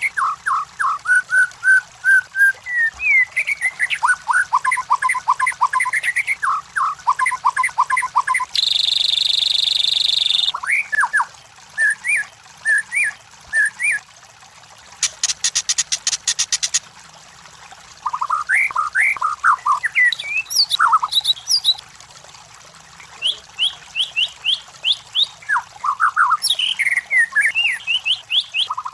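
White-rumped shama (murai batu) singing a varied run of short, clear whistled notes and slurs. It is broken by a harsh buzzing note about nine seconds in and a fast, high ticking rattle around fifteen seconds.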